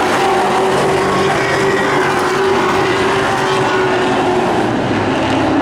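Super truck race engines running on the track, a steady, dense engine drone with several held pitches and no single car passing clearly.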